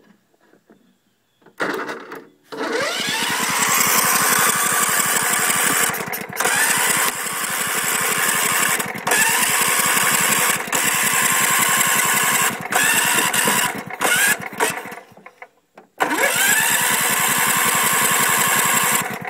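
Electric starter cranking a Kohler lawn tractor engine that spins over fast but does not catch. There is a short burst, then one long crank of about twelve seconds, then a third crank after a brief pause, each spinning up in pitch at the start. The uploader puts the no-start down to a failed ignition coil.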